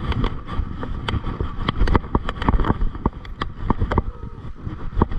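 Mountain bike riding over a rough off-road trail: a steady low rumble of tyres and wind on the microphone, broken by frequent sharp, irregular clicks and rattles from the bike.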